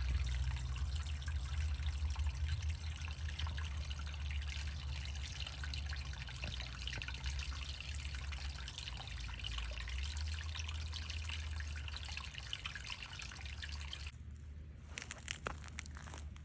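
Steady trickling water with a low rumble underneath. Near the end the trickle drops away and a few sharp crackles start.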